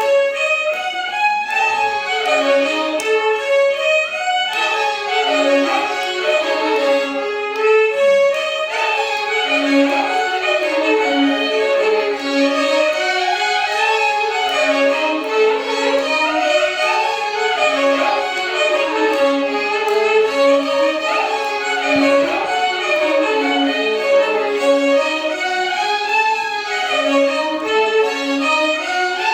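Carnatic music played by a violin ensemble in unison, a continuous melody of rising and falling phrases with gliding notes.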